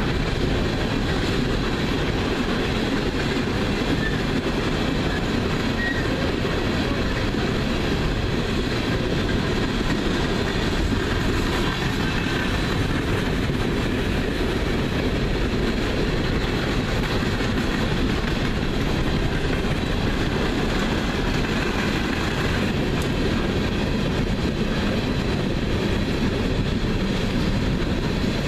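Coal train's open-top coal cars rolling steadily past close by: steel wheels running on the rails in a continuous, even noise.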